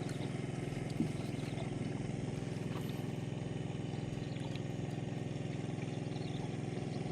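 A small engine running steadily at an even speed, with a single short knock about a second in.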